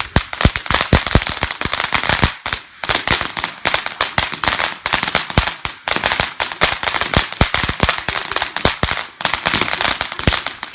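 Fireworks going off in a loud, rapid string of sharp cracks and bangs, several a second, with brief pauses about two and a half, six and nine seconds in.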